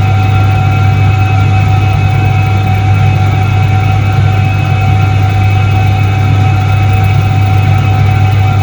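A 1978 Soviet Iset-3 washing machine running, with a loud, steady motor hum and a few steady higher tones above it.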